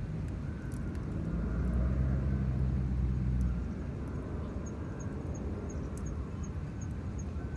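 Low, steady engine hum that stops about three and a half seconds in, followed by faint high chirps about three a second.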